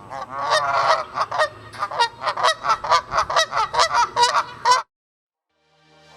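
Geese honking: a rapid, overlapping run of nasal honks, several a second, that stops abruptly near the end.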